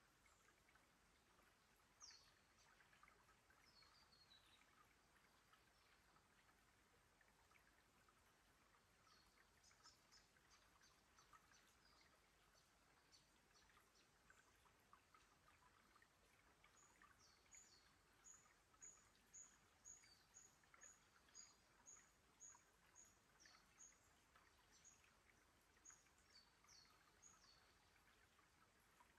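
Faint birdsong over a faint trickle of water among stream rocks. A couple of high, falling calls come early. Later a bird repeats a short high note about twice a second for several seconds.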